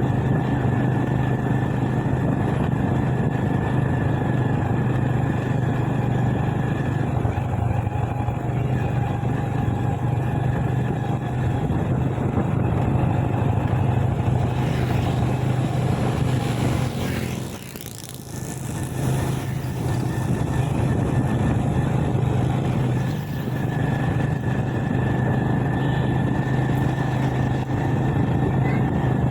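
Motorbike engine running at a steady cruise with road and wind noise as it is ridden along. About two-thirds of the way through, the engine eases off briefly and the sound dips, then picks up again.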